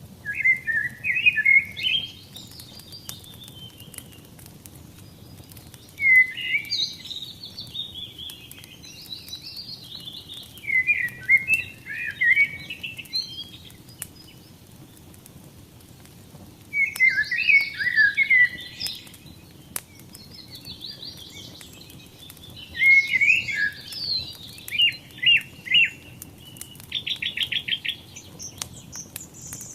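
A songbird singing short, warbled phrases every few seconds, with a fast trill near the end, over the faint crackle and low hiss of a burning wood fire.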